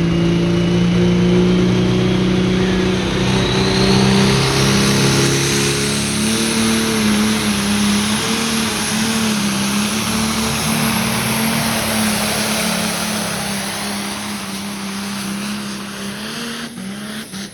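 Pulling tractor's engine running flat out under load through a full pull down the track, with a high whine that climbs steadily in pitch over the first several seconds and then holds. The engine drops off near the end as the pull finishes.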